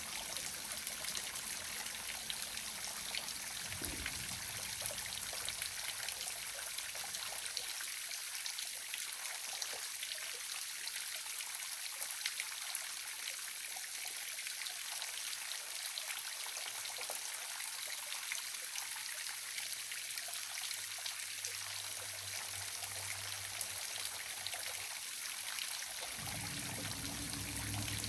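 Waterfall with an even, steady rush of falling and splashing water.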